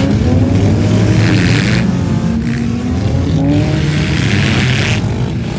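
Demolition derby vehicles' engines revving, the pitch rising and falling with more than one engine at once. Two stretches of hiss cut in, a short one about a second in and a longer one from about three and a half to five seconds.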